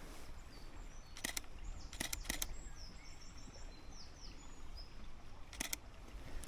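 A small songbird singing a high, quick warbling song of rising and falling notes, with a DSLR camera shutter clicking several times over it, twice in quick pairs.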